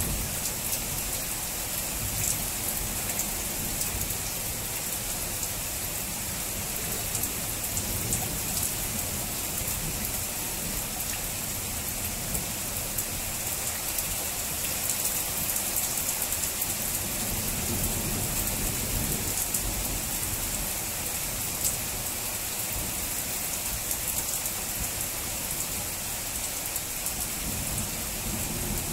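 Heavy thunderstorm rain falling steadily, a dense hiss of drops hitting hard surfaces, with thunder rumbling low underneath at times.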